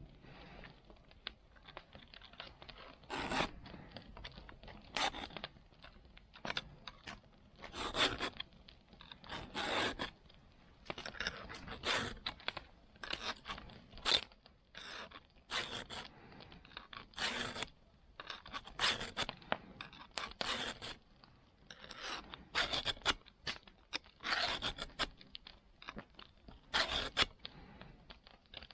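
Metal file scraping across a saw's teeth in uneven strokes, about one or two a second: the saw being sharpened.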